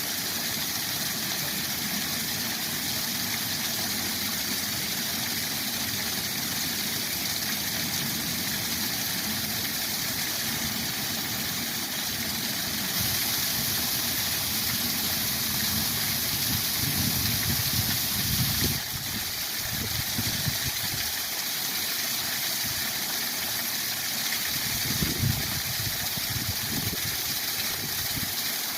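Waterfall rushing steadily in spring flow, its hiss brightening for a few seconds midway. Low rumbles come and go in the middle and again about three-quarters through.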